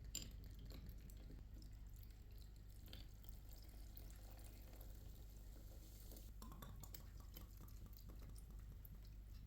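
Faint sound of a drink being mixed: liquid poured into a glass, with scattered light clicks and clinks, over a low steady hum.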